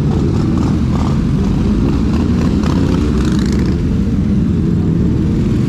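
Motorcycle engine running steadily while riding, under a dense low rumble of road and wind noise.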